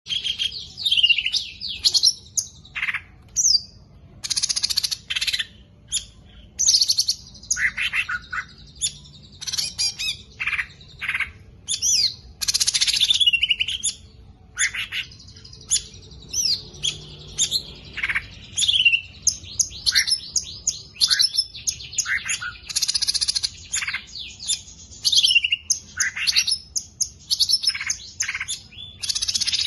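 A songbird singing a long, rapid, varied song of chirps, trills and whistling glides, with only short breaks between phrases.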